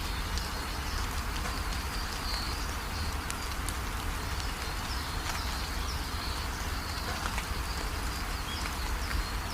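Steady rainfall, a dense patter of drops with a constant low rumble underneath. High, short chirping calls from small animals repeat throughout.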